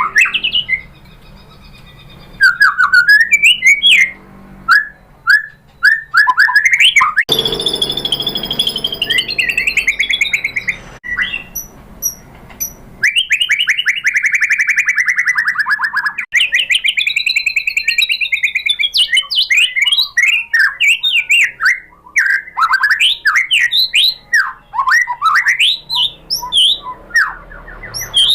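White-rumped shama singing a loud, varied song of rapid whistled phrases, glides and trills, including a fast trill about halfway through.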